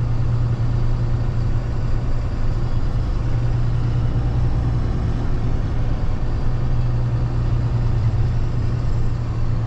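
Freightliner box truck's diesel engine running steadily, a continuous low drone heard from inside the cab.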